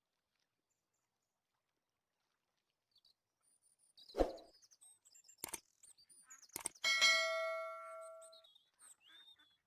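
A few knocks and clicks, then a metal object struck once, giving a ringing clang that fades over about a second and a half.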